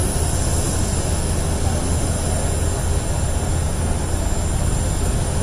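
Steady aircraft engine noise: an even low rumble with thin high steady tones on top, unchanging throughout.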